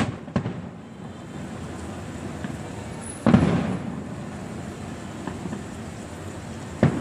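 Aerial fireworks bursting: a couple of sharp bangs at the start, one loud boom about three seconds in with a short rumbling tail, and a quick cluster of bangs near the end, over a steady background hum.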